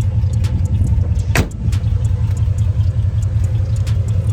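Car engine idling, a steady low rumble, with a few light clicks and one sharper click about a second and a half in.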